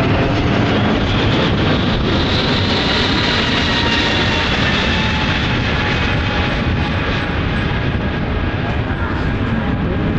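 Twin jet engines of an Airbus A320 airliner passing in a display flight: a loud, steady rush of jet noise, with a high whine that slowly drops in pitch as it goes.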